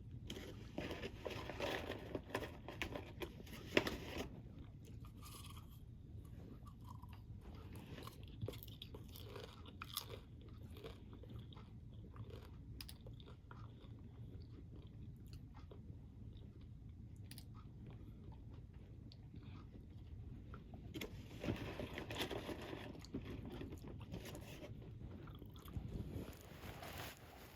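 A person chewing a crunchy snack, the crunching coming in bouts: dense at the start and again for several seconds near the end, with sparse crunches in between. A steady low rumble runs underneath.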